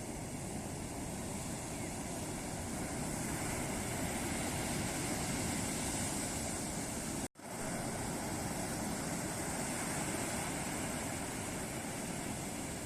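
Ocean surf: waves breaking and washing ashore in a steady rush, with a split-second dropout to silence about seven seconds in.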